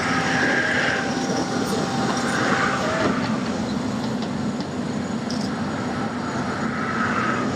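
Hyundai excavator's diesel engine running steadily, with a few brief higher squealing sounds.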